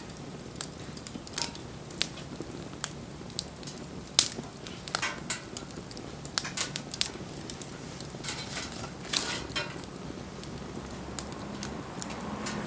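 Wood fire crackling, with irregular sharp pops and snaps from the burning wood; the loudest pop comes about four seconds in.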